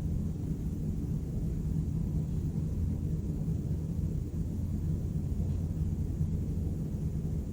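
Night-time city ambience: a steady low rumble of distant traffic, even throughout with no distinct events.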